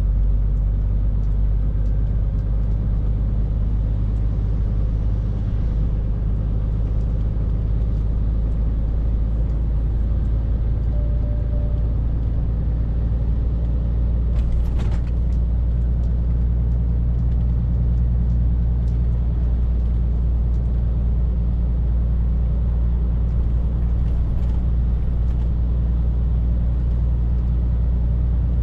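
Scania R450 lorry's 13-litre six-cylinder diesel running steadily at cruise with road rumble, the low drone holding even. A single brief knock about halfway through.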